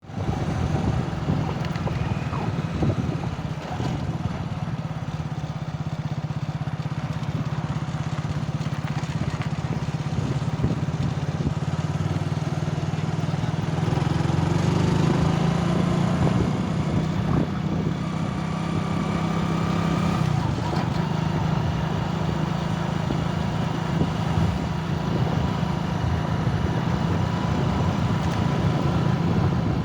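A motor vehicle's engine running steadily, rising in pitch about halfway through and settling back down about two-thirds of the way in.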